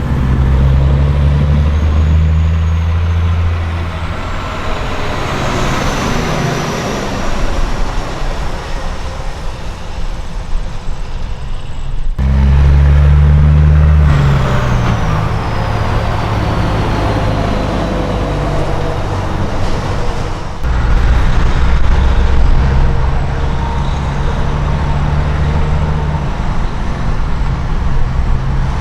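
Semi-truck diesel engines running loud as big rigs pull past, in three separate takes. Twice a thin high whine falls in pitch as a truck goes by.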